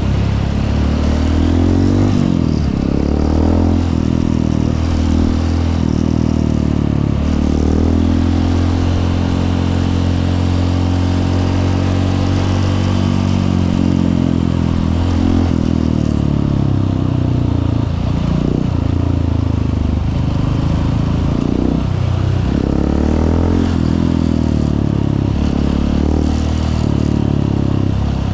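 Honda CRF150L's single-cylinder four-stroke engine running while riding, its pitch rising and falling with throttle and gear changes, holding steady for several seconds in the middle.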